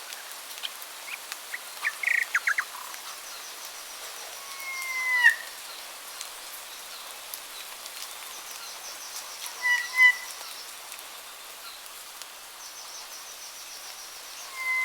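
Wild birds calling in woodland: a quick run of short chirps about two seconds in, a rising whistled call around five seconds, and two short notes around ten seconds, with faint high trills between. A steady hiss runs beneath.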